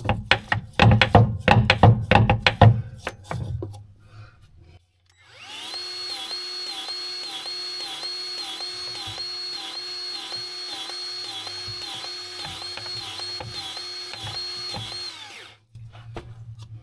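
Sharp clicks and knocks of hand work, then a battery-powered grease gun's motor running for about ten seconds with a steady pulse about twice a second as it pumps grease into the skid steer's U-joint, before it cuts off.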